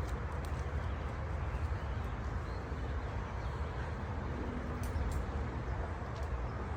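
Steady outdoor background noise: a low rumble with an even hiss above it and no distinct events.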